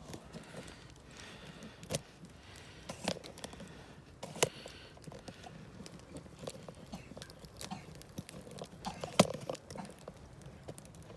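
Wood campfire crackling, with small irregular pops and two louder sharp snaps, about four seconds in and about nine seconds in.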